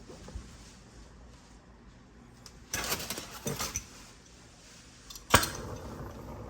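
Tools being handled with some rustling and clatter, then a single sharp click about five seconds in, followed by a steady hiss.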